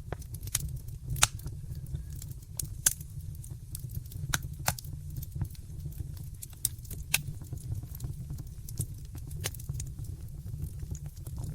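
Wood fire in a fireplace crackling: irregular sharp pops and snaps over a steady low rumble, with two louder snaps about a second in and near three seconds.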